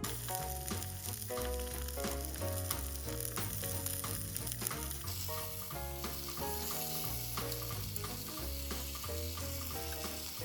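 A dense sizzling hiss, louder from about halfway through, over background music with a melody and a stepping bass line.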